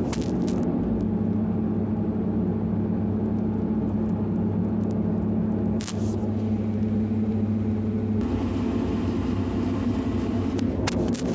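Diesel engine of heavy machinery running steadily with a low drone; its note changes about eight seconds in, with a few brief knocks along the way.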